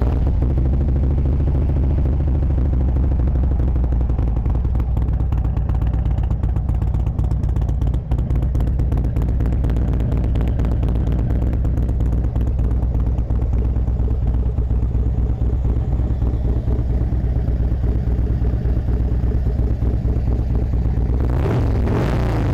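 2010 Harley-Davidson Street Glide's 96-cubic-inch fuel-injected Twin Cam V-twin idling steadily just after starting, through a Vance & Hines X-pipe and aftermarket slip-on mufflers, with a quick pulsing beat.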